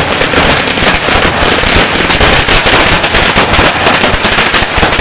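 Firecrackers going off in a rapid, continuous crackling barrage of many sharp bangs a second, very loud.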